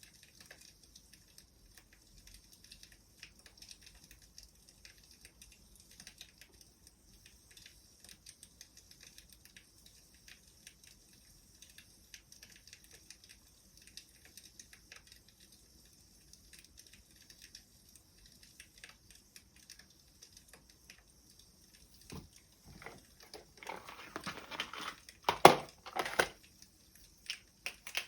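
Wood fire crackling softly with scattered small pops over a faint hiss. Near the end comes a louder flurry of rustling and sharp snaps.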